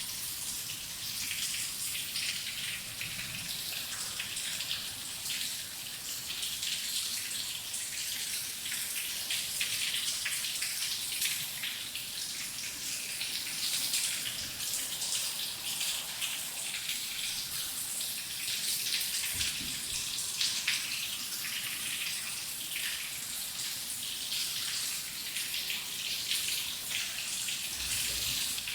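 Steady rain, with many close individual drops pattering and splashing over a constant hiss.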